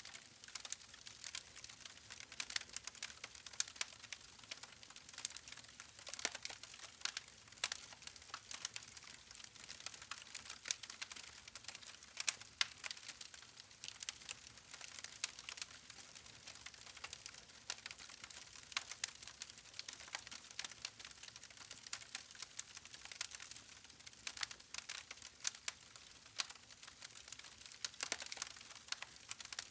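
Wood campfire crackling: a soft steady hiss of burning with frequent sharp, irregular pops and snaps from the logs.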